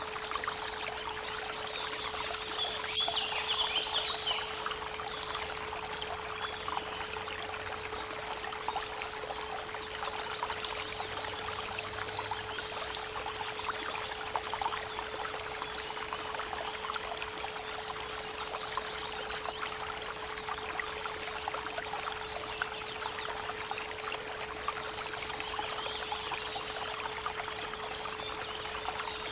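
Creek water trickling and splashing steadily under a constant 432 Hz pure tone, with birds singing a few short chirps and trills now and then.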